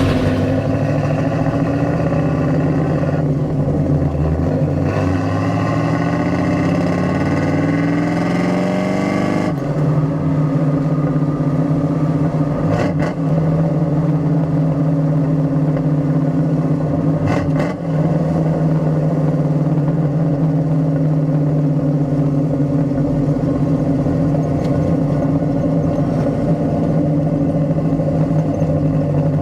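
Exhaust of a 1975 Pontiac Trans Am's 455 V8 with headers, heard close from the rear of the car, while it is driven. The engine note climbs steadily under acceleration, drops abruptly about a third of the way in, and then holds a steady cruise, with two short breaks in the middle.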